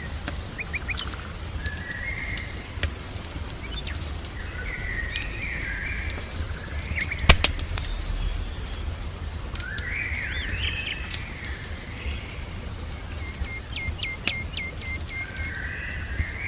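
Small birds chirping and singing in short phrases, including a quick run of repeated notes near the end, over scattered crackles from a wood fire with one sharp pop about seven seconds in. A steady low rumble runs underneath.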